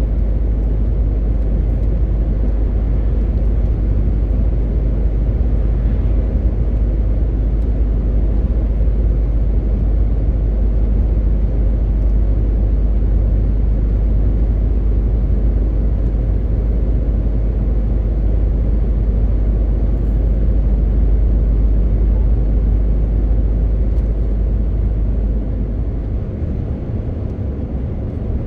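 MAN TGX 18.520 truck on the move: the steady low rumble of its 12.4-litre straight-six diesel engine with road noise, easing off slightly near the end.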